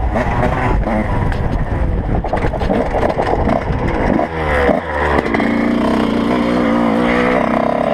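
Motocross motorcycle engines revving, the pitch swinging up and down about halfway through, then holding a steadier note.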